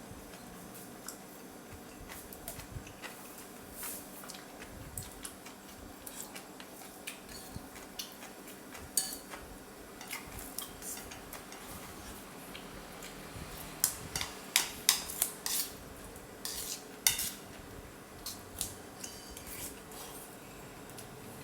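Eating utensils clinking against a bowl of soup: scattered light clinks, with a quick run of louder ones about two-thirds of the way through.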